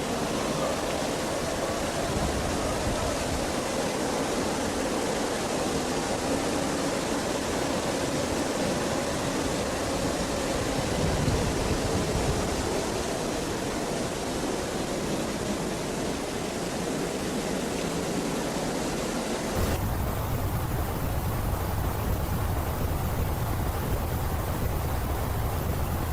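High-pressure washer spray hissing steadily against the truck. About twenty seconds in the sound changes abruptly to a duller, lower rumbling noise.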